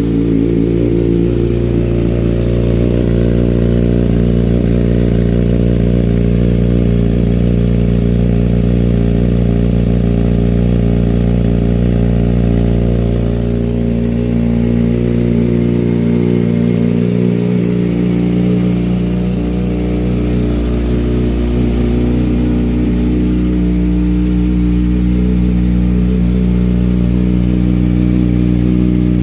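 Kawasaki Ninja ZX-6R inline-four engine with an M4 GP19 slip-on exhaust, running steadily at a fast idle just after a cold start while it warms up. The pitch barely changes and there is no revving.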